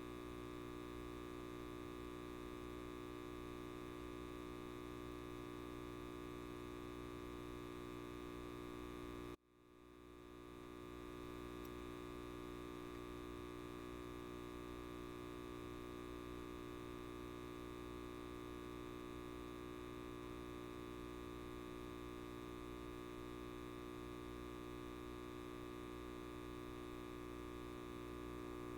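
Light bulb buzzing with a steady electrical hum made of many steady tones. About nine seconds in, the sound suddenly drops out and fades back up over a second or so.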